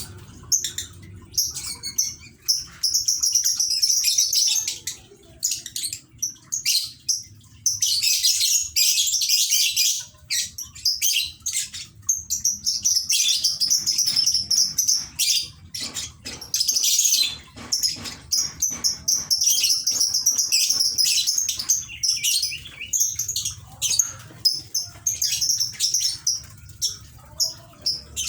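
A lovebird chattering in long, high-pitched, rapid runs that last several seconds each, broken by short pauses.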